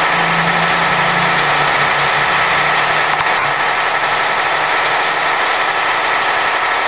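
Truck on the move on a highway: steady engine and road noise, with a low hum that fades out over the first few seconds.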